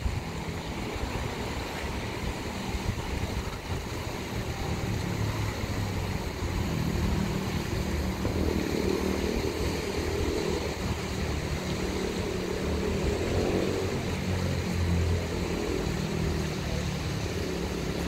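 Diesel multiple unit train rumbling along the sea-wall line. Its engine drone swells about halfway through and eases off towards the end, under steady wind and surf.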